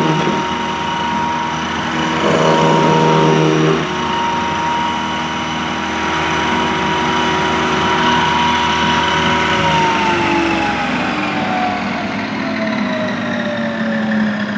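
Electric motor of a sanding machine running steadily with a whirring hum, with a louder passage about two to four seconds in. About ten seconds in it is switched off and winds down, its pitch falling as it coasts to a stop.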